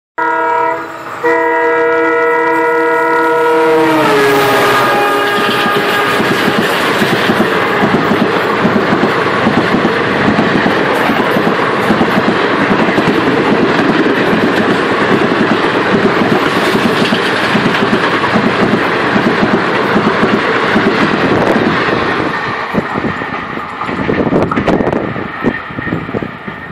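Passing train's locomotive horn sounding two blasts, its pitch dropping sharply as it goes by about four seconds in. Then the loud rush and rattle of its passenger coaches passing close alongside, thinning near the end into wheels clicking over rail joints.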